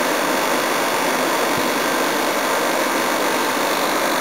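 Air conditioner running with a steady rush of fan air over the hum of its compressor. The compressor runs quietly, having settled after about five minutes of running.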